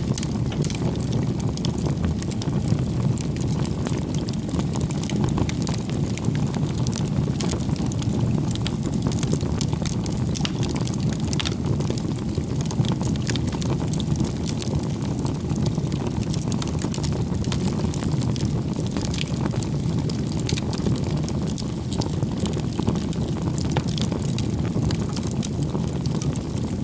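Wood campfire burning: a steady low rumble of flames with frequent small crackles and pops from the burning wood.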